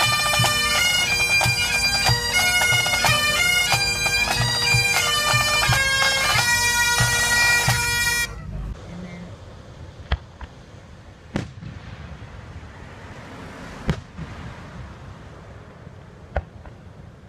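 A bagpipe band playing a tune over its steady drones, which cuts off abruptly about eight seconds in. Then four sharp, widely spaced bangs over a quieter outdoor background.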